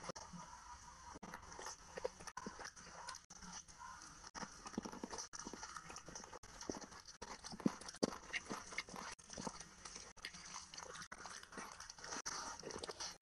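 A person chewing and biting mouthfuls of chicken curry and rice eaten by hand, close to the microphone, with irregular small crunches and mouth clicks.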